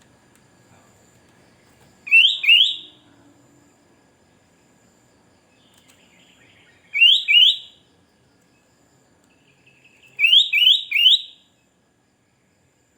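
Sooty-headed bulbul (kutilang) calling: three bursts of two or three quick, bright, rising notes, a few seconds apart, the last burst with three notes.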